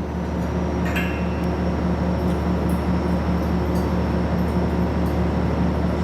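Steady low machine hum with a tone that pulses about four times a second, and a few faint ticks over it.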